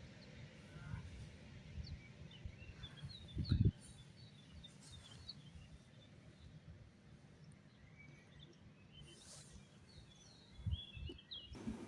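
Small birds chirping in short scattered calls over a low outdoor rumble, with one low thump about a third of the way in and a louder stretch of low knocks near the end.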